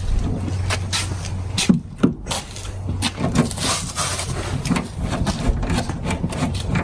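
Irregular clicks, knocks and scraping of hand work with small parts and tools, over a steady low hum.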